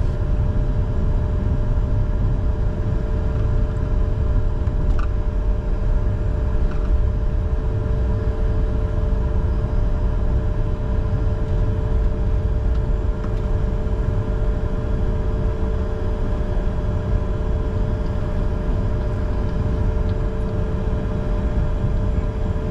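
Cockpit noise of a Bombardier Challenger 605 with its CF34 turbofans at idle before take-off: a steady low rumble with a constant hum.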